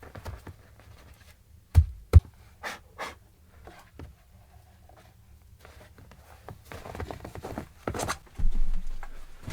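Two heavy thumps close together about two seconds in, followed by a few lighter knocks and clicks, then rustling and scraping handling noise that grows near the end.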